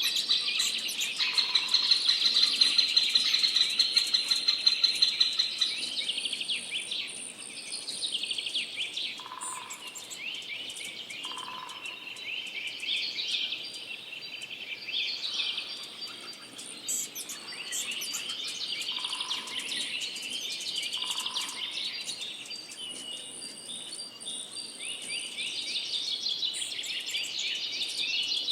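A songbird singing a long, continuous twittering song of rapid trills and chirps, loudest in the first six seconds. A few short, soft low notes come in now and then.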